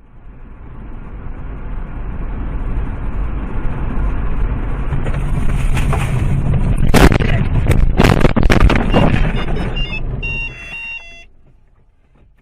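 Car crash heard from a dashcam: road and engine noise swells, then loud impacts strike about seven seconds in and again around eight to nine seconds. A short run of electronic beeping follows before the noise dies away.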